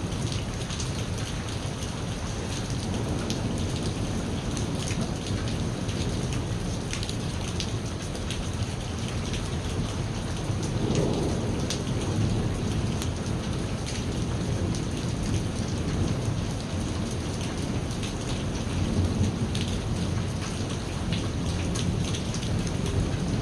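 Steady heavy rain falling, with drops pattering and rolling thunder rumbling low underneath.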